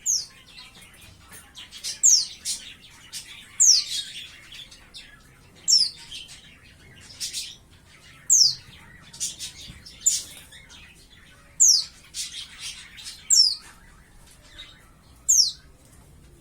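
Young white-eye (pleci), about five months old, calling: short, sharp, very high notes that fall steeply in pitch, repeated about every two seconds with fainter twittering between them.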